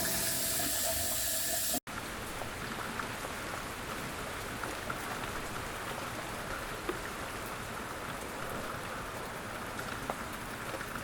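Steady light rain, a drizzle, falling with scattered drops tapping on a surface. Background music fades out over the first two seconds.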